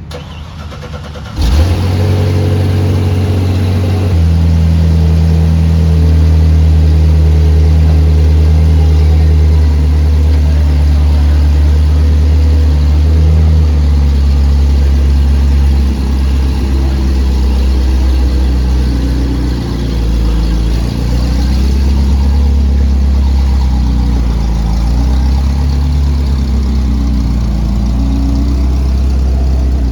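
The Zenvo TSR-S's twin-supercharged V8 starts abruptly about a second and a half in. It then idles loudly and steadily, its note settling a few seconds after the start and wavering slightly later on.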